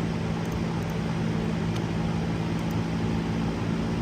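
Steady machinery hum of running woodworking-shop equipment, a constant low drone with a noisy rush over it.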